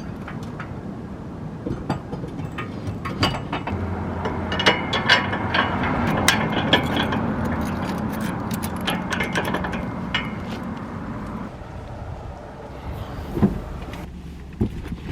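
A vehicle engine running with a steady low hum, among scattered clicks and rattles of handling. The hum drops away about three quarters of the way through.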